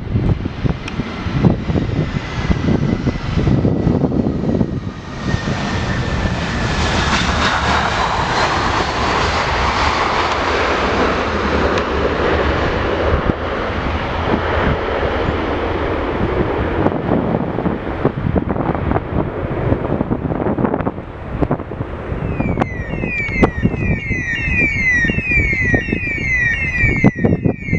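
Jet airliner passing, its engine noise building to a peak and then easing off, with a faint whine falling in pitch as it goes by. Near the end a high chirp falling in pitch starts repeating rapidly, several times a second.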